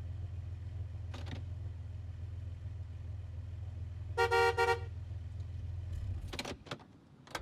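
Car engine idling with a low steady hum, and a car horn honked twice in quick succession about four seconds in. The engine cuts off about six seconds in, followed by a few sharp clicks.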